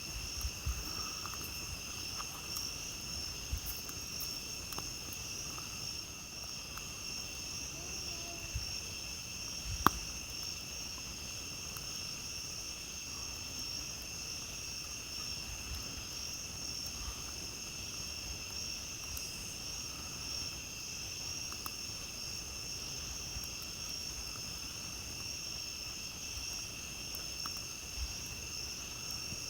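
Steady chorus of night insects such as crickets, trilling without pause at two high pitches, with scattered small crackles from a campfire and one sharp pop about ten seconds in.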